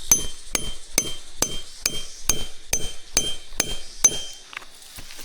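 Steady hammering: about two sharp strikes a second, each with a metallic ring, stopping about four seconds in, followed by a couple of lighter knocks.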